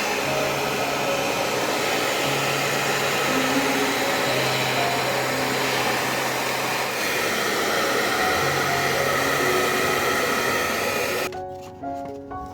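Hair dryer blowing at a steady rush, cut off abruptly near the end, with background music playing over it.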